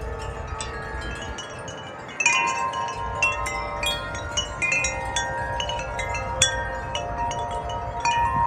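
Several wind chimes ringing in gusty wind, their tones struck irregularly and lingering; the strikes pick up and grow louder a little over two seconds in.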